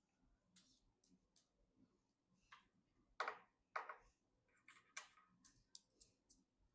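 Scattered light clicks and taps, with two louder short scraping rustles about three and four seconds in: small PC parts and packaging being handled during assembly.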